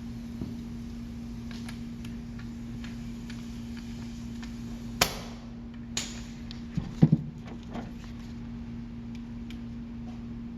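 Workshop clatter of tools and parts being handled: a sharp knock about halfway through, another a second later, then a quick cluster of louder clanks with a short ring, over a steady hum.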